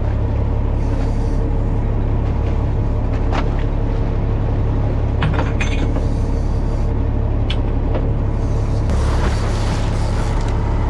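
Fishing boat's engine running with a steady low drone, with a few sharp clicks and knocks about three and a half, five and a half, and seven and a half seconds in.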